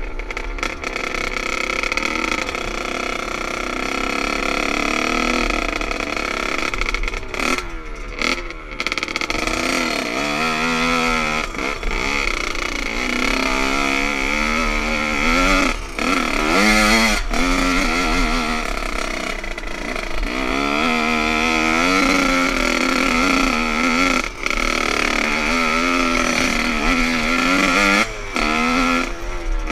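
Motocross bike engine revving up and down over and over as it is ridden, its pitch rising and falling every second or two, with a few brief drops in between.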